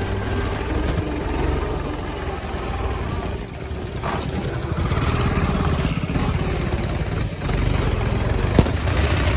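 Mahindra 575 tractor's diesel engine running steadily, with one short knock near the end.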